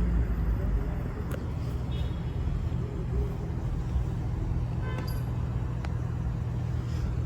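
Street traffic noise: a steady low engine rumble from motor vehicles, with a few faint clicks and distant voices.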